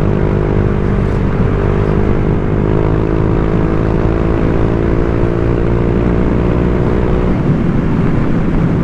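Honda Vario 125 scooter's single-cylinder engine running through an aftermarket TZM-style 'standard racing' exhaust under steady throttle, its note slowly rising in pitch. About seven seconds in the engine note drops away, as on closing the throttle, leaving road and wind rumble.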